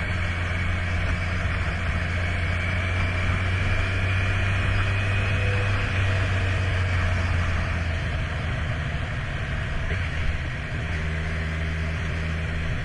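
Kawasaki Z1000 inline-four motorcycle engine running steadily, close by, its note easing slightly about eight seconds in.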